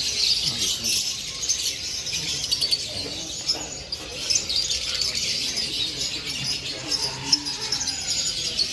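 Many caged small songbirds chirping and twittering at once, a dense, continuous high chorus.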